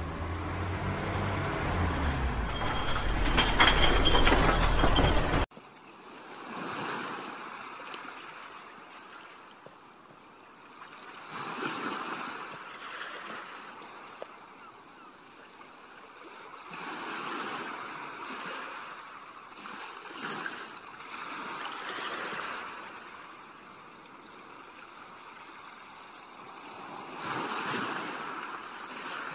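Shallow river water flowing and sloshing, swelling and fading every few seconds. It begins after a louder low-pitched sound with stepped tones cuts off abruptly about five seconds in.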